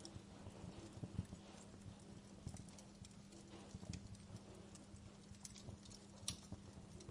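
Wood fire crackling with irregular small pops and snaps, one sharper pop about six seconds in, over a faint steady low hum.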